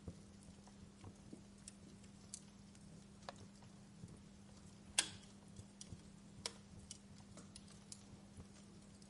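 Wood fire crackling in a fireplace: quiet, irregular small pops and ticks, with one sharper pop about five seconds in and another a moment later.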